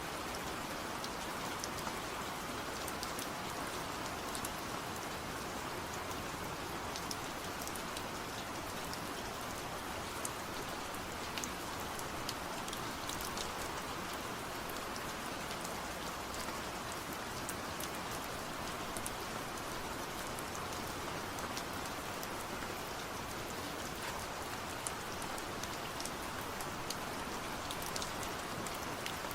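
Steady rain falling, with a constant hiss and many small drop ticks scattered throughout.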